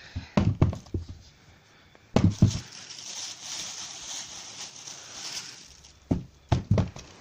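Tennis balls being dropped into a container, a few dull thuds at a time in three short bursts.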